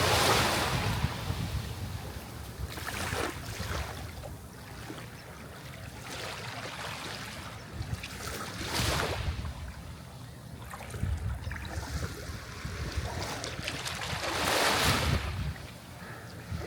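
Sea waves breaking and washing in, the hiss of surf swelling and fading with each wave every few seconds, loudest near the start and about nine and fifteen seconds in.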